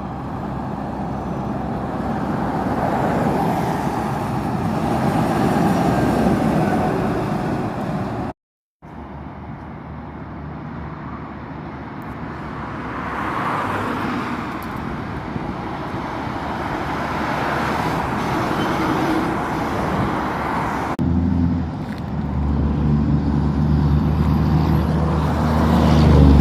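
Road traffic passing, with the sound of tyres and engines on the road; it cuts out briefly about eight seconds in. Near the end a large truck's engine runs close by, its low hum growing louder.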